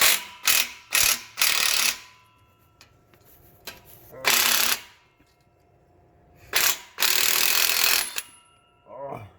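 Hand ratchet wrench clicking in short bursts: several quick strokes in the first two seconds, then two longer runs, while exhaust bolts are being worked loose.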